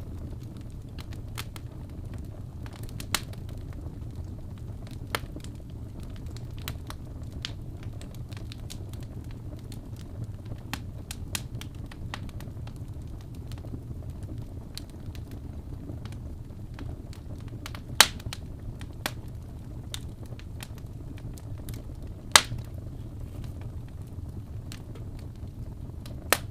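Fire crackling in a fireplace: irregular sharp pops and snaps over a steady low rumble, with a few much louder pops, the loudest about eighteen and twenty-two seconds in.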